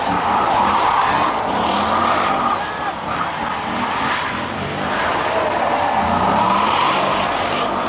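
A car's tyres squealing in two long skids, the first ending around two and a half seconds in and the second starting about five seconds in, with the engine revving underneath.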